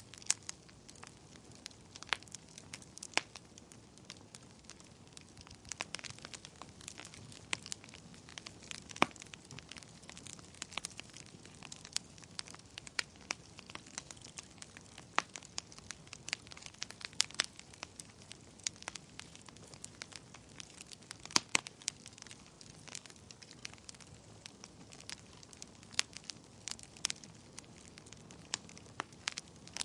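Wood fire burning in a fireplace: irregular sharp crackles and pops over a soft steady hiss of the flames.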